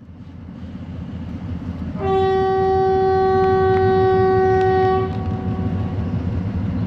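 A passing train's horn sounds one long, steady blast of about three seconds, starting about two seconds in, over the low rumble of the train running.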